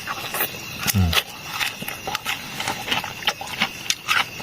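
A person eating close to the microphone: irregular chewing smacks and small clicks, with a brief low murmur about a second in.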